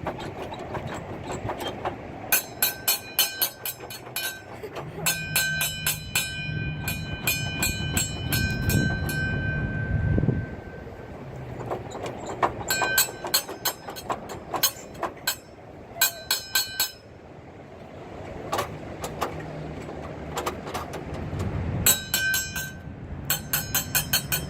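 Model train display sounds: four runs of rapid, evenly spaced ringing clicks, each a few seconds long, over a low steady hum.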